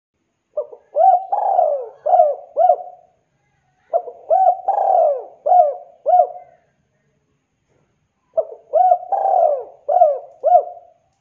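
Spotted dove (tekukur) cooing: three phrases a few seconds apart, each a run of several rising-and-falling coos.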